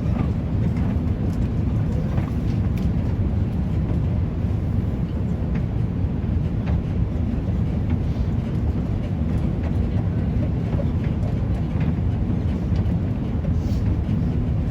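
Steady low rumble of cabin noise inside an Airbus A350 airliner in flight, the drone of the engines and air rushing past the fuselage, with a few faint ticks over it.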